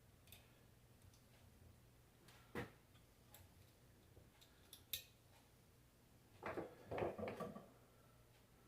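Near silence with a few sharp clicks and a short cluster of light knocks and rattles near the end, as small metal alternator parts and tools are handled on a workbench.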